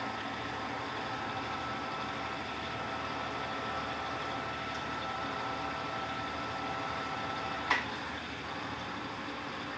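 Electrolux LTC15 top-loading washing machine running with a steady hum. About three-quarters of the way through, a sharp click, and the steady tones in the hum stop.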